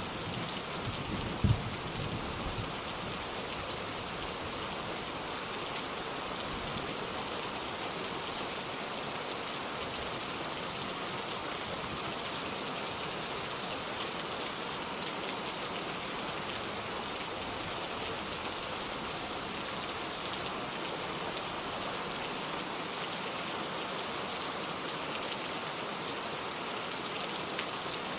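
Steady rain, an even hiss of falling drops, with one brief low thump about a second and a half in.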